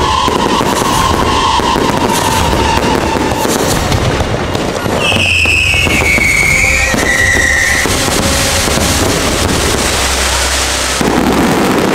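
Aerial firework shells and comets bursting and crackling in quick succession, with a music track playing over them.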